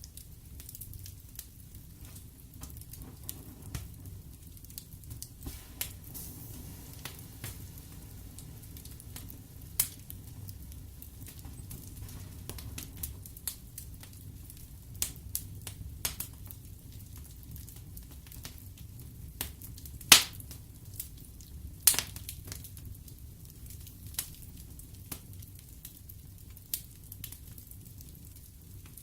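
Wood fire burning in a fireplace: a low steady rumble of flames with irregular sharp crackles and pops, two louder pops about 20 and 22 seconds in.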